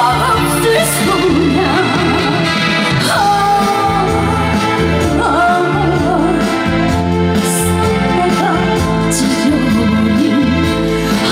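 A female trot singer singing live with band accompaniment, her voice wavering with vibrato over a steady bass line.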